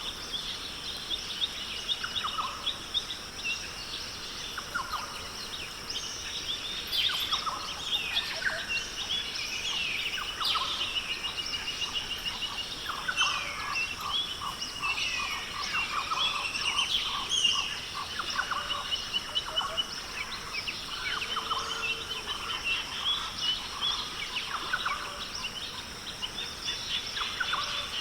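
Australian rainforest ambience: a dense chorus of many birds calling at once, with overlapping chirps, rapid trills and short whistled glides, over a steady high-pitched hiss.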